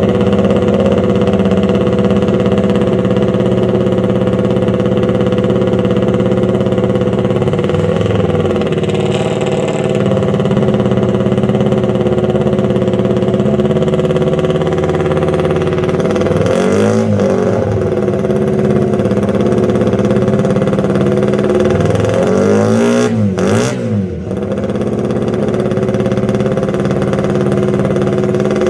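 Honda RC142 125 cc four-stroke twin racing engine running at a fast idle, blipped three times: the revs rise and fall back about eight seconds in, again near the middle and again a few seconds before the end.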